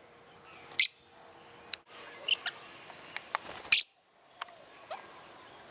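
Pet lovebirds giving short, shrill chirps, about five scattered calls, with a few faint ticks in between.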